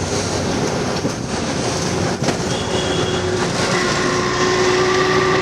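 Road noise of a tuk tuk ride: a steady rumble and rattle with wind noise, and a steady humming tone that joins in about two-thirds of the way through.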